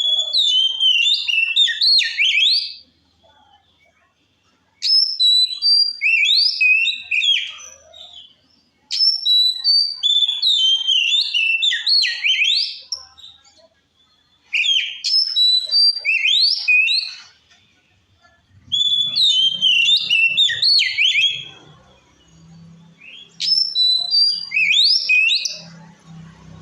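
Oriental magpie-robin singing in six loud phrases of quick whistled notes that sweep up and down, each phrase two to four seconds long with short pauses between.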